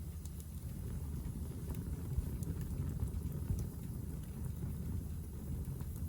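Hardwood fire burning in a Picogrill fire stand, with sparse faint crackles over a steady low rumble.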